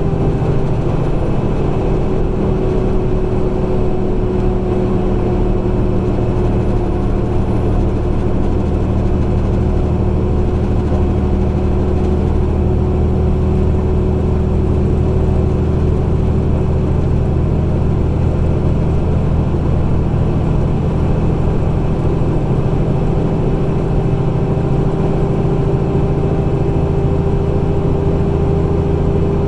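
Truck's diesel engine and road noise heard from inside the cab, a steady drone at constant speed with no change in revs.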